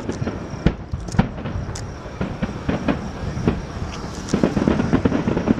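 Fireworks display: an irregular string of bangs and crackles over a steady low rumble, growing denser about four seconds in.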